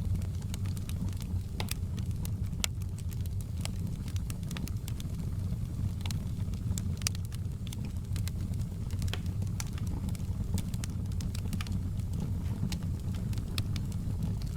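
Wood fire crackling in a fireplace: irregular sharp pops and snaps scattered over a steady low rumble of the burning flames.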